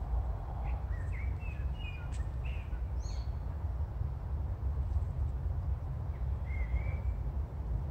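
Birds chirping in short calls, several about one to three seconds in and one more around six and a half seconds in, over a steady low rumble of outdoor background noise.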